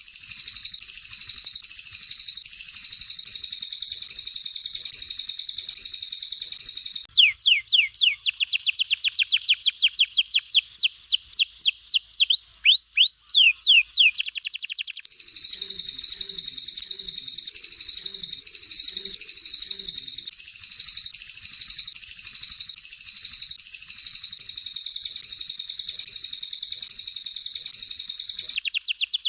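Canary and cililin song, used as masteran training song: a dense, rapid, high-pitched chattering song alternates with a fast trill of repeated downward-sweeping whistles, heard from about 7 to 15 seconds in and again near the end.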